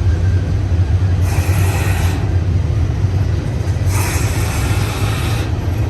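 Double-stack intermodal freight train rolling past with a steady low rumble. A higher hissing noise swells twice, about a second in and again about four seconds in, each time for a second or so.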